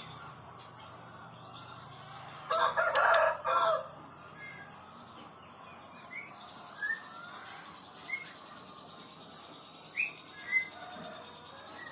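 Bird calls: one loud three-part call lasting just over a second, a few seconds in, then a handful of short high chirps scattered after it.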